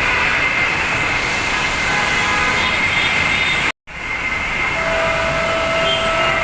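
Heavy rain pouring down in a steady, dense hiss, cutting out for an instant just over halfway through.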